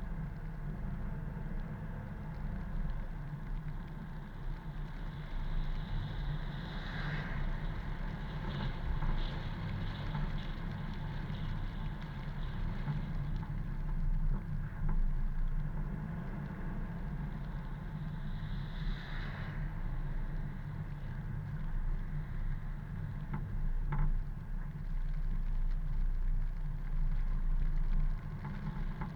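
A car driving along a road, with a steady low engine and tyre rumble and two brief, brighter swells partway through.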